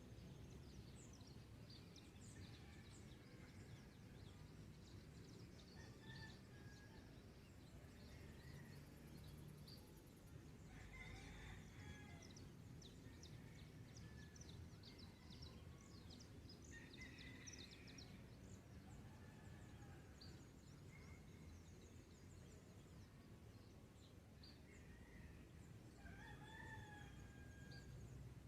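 Faint dawn birdsong: many small birds chirping throughout, with a rooster crowing a few times in the distance, over a low steady rumble.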